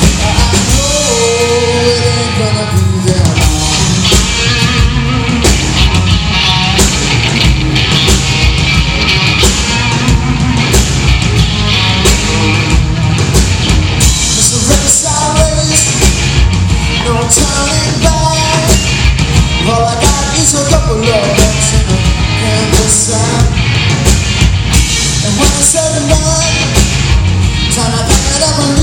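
Rock band playing loud and live, a steady drum beat driving the band under a lead melody line that bends in pitch.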